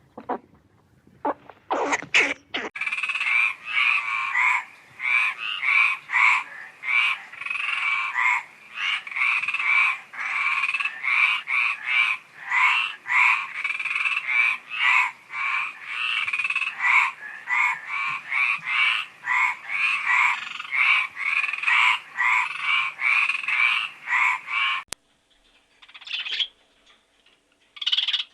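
Frogs croaking in a dense chorus of rapidly repeated calls, which cuts off abruptly near the end.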